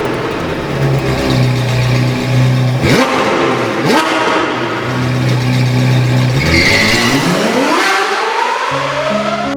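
A car engine revving: a few quick blips rising in pitch, then a long climbing rev over the last three seconds.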